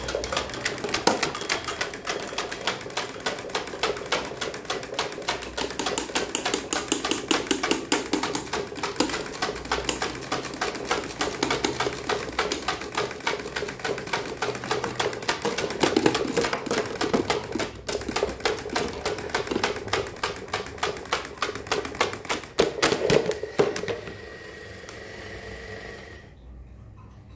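Electric fan running fast with a rapid, dense mechanical clatter, like something striking or rattling against the spinning blades. About 24 s in the clatter stops, leaving a quieter steady whir with a thin whine that then drops away near the end.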